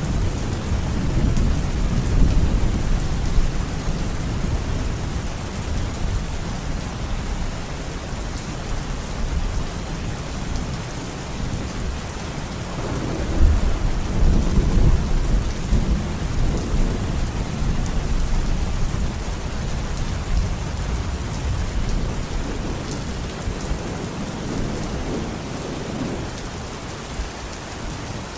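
Steady heavy rain with low rolling thunder rumbling underneath, swelling into a louder rumble about halfway through.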